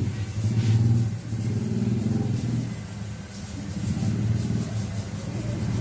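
Engine of a Rusi automatic scooter running, its sound swelling and easing several times as the throttle is worked.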